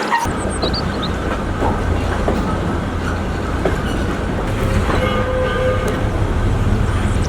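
Narrow-gauge wood-burning steam train running along the line, a steady low rumble with wheels clattering over the rails, and a faint brief tone about five seconds in.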